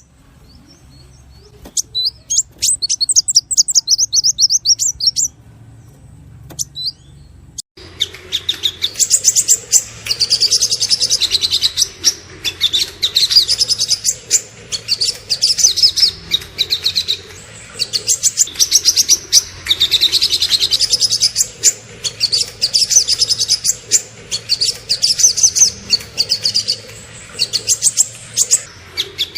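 Small songbirds singing rapid, high-pitched chirping and trilling phrases. A fast trill runs for a few seconds, then a near-quiet gap with a couple of single notes. Another recording cuts in abruptly about eight seconds in, with dense, almost continuous chirping.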